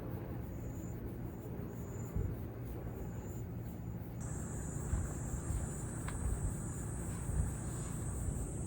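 Insects singing: short high chirps repeat about once a second, then about four seconds in a continuous high buzzing song starts and holds, over a steady low rumble.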